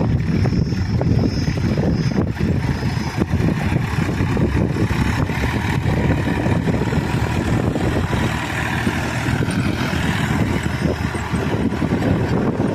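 Sonalika DI-740 III tractor's diesel engine running steadily under load while puddling with a two-bottom mouldboard plough.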